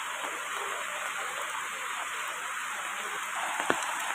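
Rain falling on palm trees and muddy floodwater running over the ground, heard as a steady hiss, with one sharp tap near the end.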